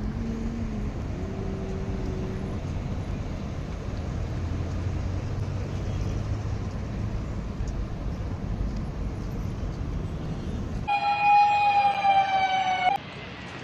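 Loud alarm tone sounding for about two seconds near the end and cutting off abruptly, heard as an earthquake-drill signal. Before it, a steady background hubbub with a low rumble.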